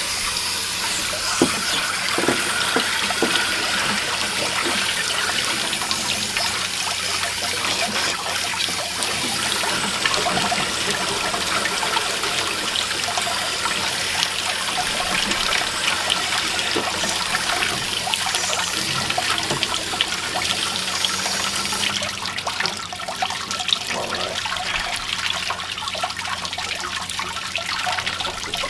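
Water jetting from a flush wand into an aluminum RV water heater tank and gushing back out of the drain opening, a steady rushing hiss. About three-quarters of the way through the high hiss falls away and the flow eases.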